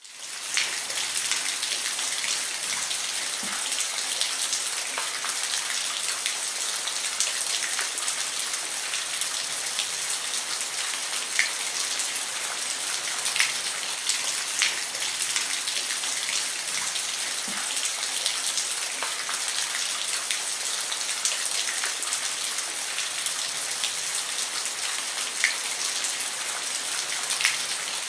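Steady rain falling on a roof: a dense, even hiss of drops with scattered louder single drop hits, fading in at the start.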